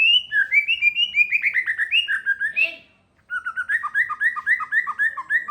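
A songbird singing two fast phrases of repeated chirping notes, about five notes a second, with a short pause about three seconds in before the second phrase.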